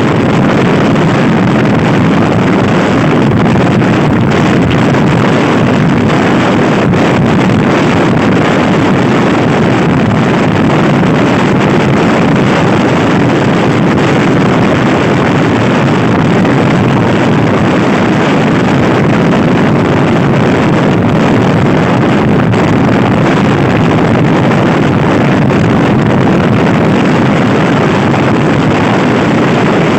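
Loud, steady wind rush on the microphone of a camera riding on a moving Honda Scoopy i scooter, an even roar with no break.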